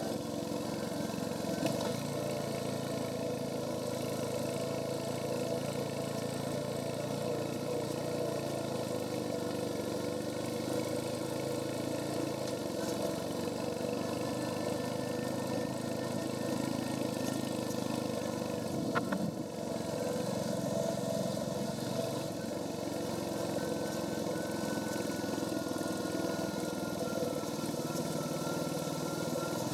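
Royal Enfield Hunter 350's single-cylinder engine running on the stock exhaust while riding, a steady engine note that changes a few times, with a short dip in loudness about nineteen seconds in.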